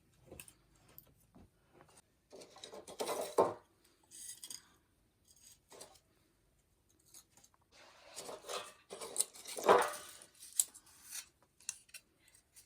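Irregular handling noises: scattered scrapes, clicks and rustles with quiet gaps, the loudest about three seconds in and again near ten seconds.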